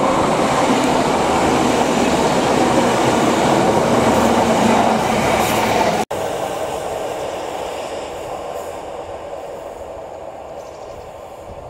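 Class 150 diesel multiple unit passing, a steady rumble of engine and wheels on rail. About six seconds in the sound cuts off abruptly and resumes as a quieter train rumble that keeps fading.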